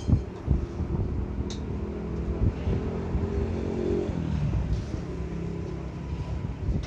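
A motor vehicle engine running, a low rumble with a steady hum.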